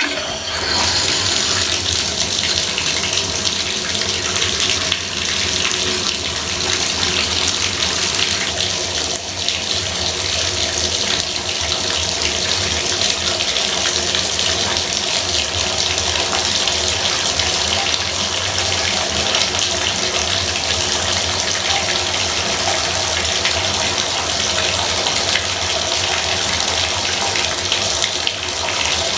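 Bathtub faucet running steadily, water pouring into the tub as a continuous rushing splash.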